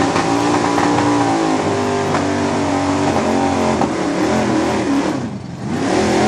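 Pulling truck's engine running hard under load as it drags a weight-transfer sled down the track. The pitch rises and falls throughout; about five seconds in it drops away briefly, then climbs again.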